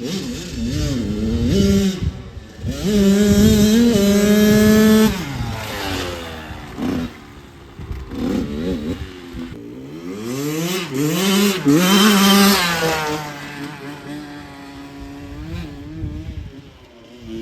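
Small dirt bike engine revving up and down as it is ridden, its pitch climbing and dropping repeatedly and held at high revs twice for a second or two.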